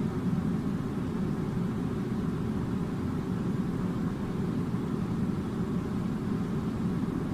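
Air conditioning running: a steady, even low rumble with no change.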